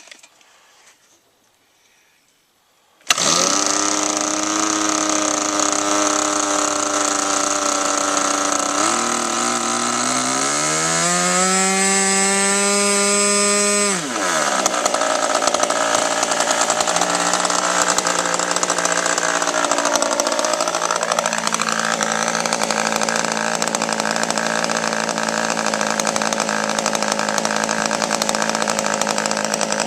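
RC model airplane engine of an F4U Corsair model, cutting in loud about three seconds in. Its revs climb over several seconds and fall away sharply, then it runs on steadily at high power, with a brief dip and rise in pitch partway through.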